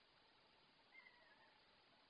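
Near silence with a faint steady hiss, broken about a second in by one faint, short, slightly falling bird call.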